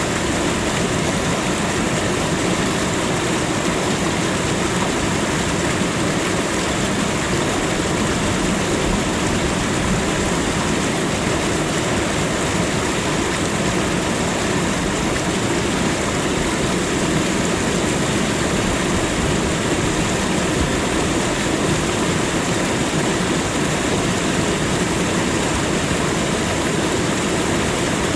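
Waterfall: water falling and splashing in a loud, steady rush that never lets up.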